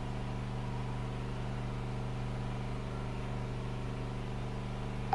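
A steady low machine hum made of several even tones, with no change.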